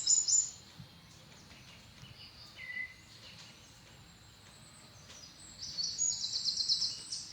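Birds chirping in high, rapid pulsed trills, once right at the start and again from about five and a half seconds in, with a quieter lull between.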